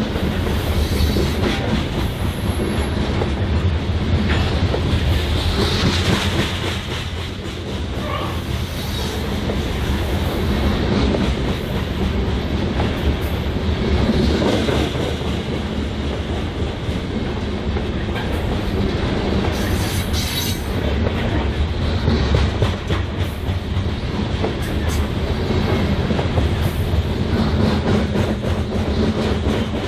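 BNSF freight train rolling past, steel wheels clacking over the rails in a steady rumble. A brief high squeal comes about two seconds in.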